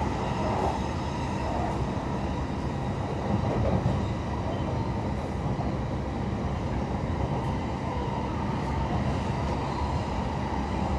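E531-series electric commuter train running, heard from inside the passenger car: a steady rumble of wheels on the rails and the running gear under the floor.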